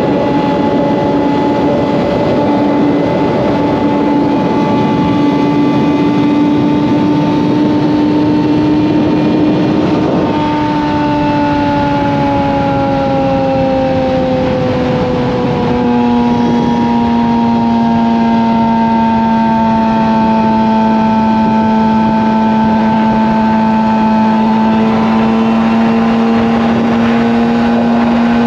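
Suzuki GSX-R750's inline-four through an M4 slip-on exhaust, cruising at highway speed with wind noise. The engine note drops gradually over several seconds about a third of the way in, then holds steady.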